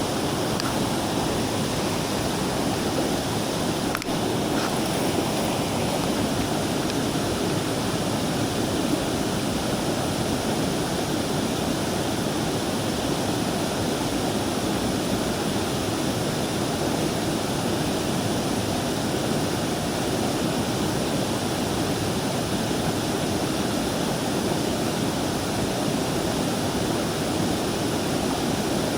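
Steady rush of a mountain stream's flowing water, an even, unchanging noise.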